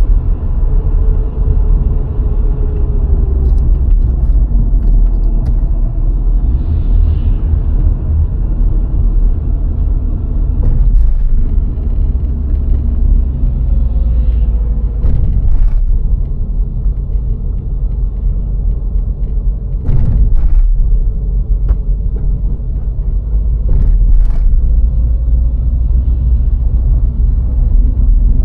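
VW Golf IV 1.6 driving along a road: a loud, steady low rumble of tyres and engine, broken a few times by short sharp knocks, two of them close together past the middle.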